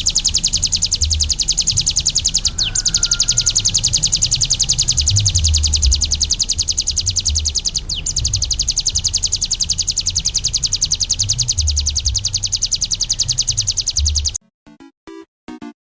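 Ciblek gunung singing one long, very fast trill of repeated high notes, broken only briefly twice. It cuts off suddenly near the end, followed by a few short electronic music tones.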